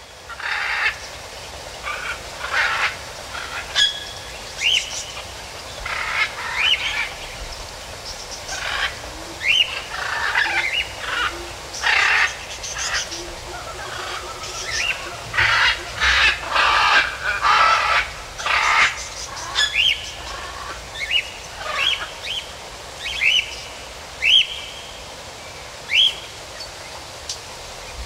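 Birds calling over a steady outdoor background hiss: an irregular string of short rising chirps mixed with harsher, scratchy calls, about one every second.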